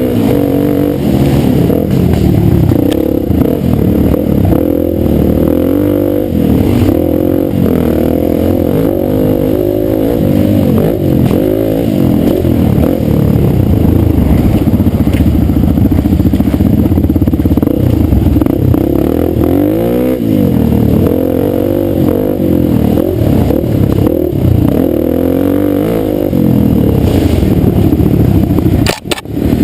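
Dirt bike engine running on a trail, revving up and down as the throttle opens and closes, with rattling clatter from the bike. Near the end the sound briefly drops out twice.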